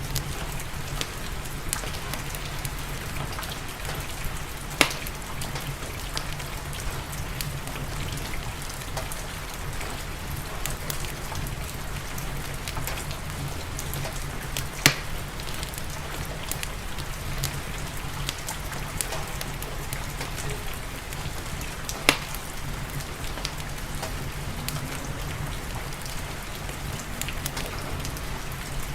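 Steady rain falling, with the crackle of a wood fire in a fireplace: many small ticks and three louder sharp pops spread across it.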